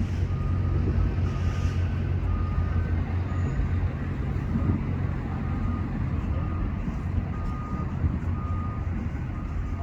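Steady low rumble of a running vehicle engine, with a faint beeper sounding short tones about once a second.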